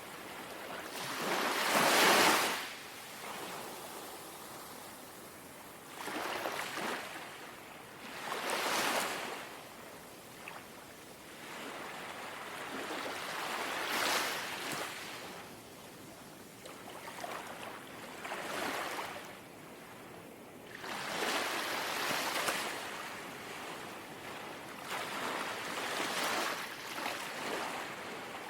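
Small, calm sea waves lapping, each wash swelling and fading every few seconds. The first wash, about two seconds in, is the loudest.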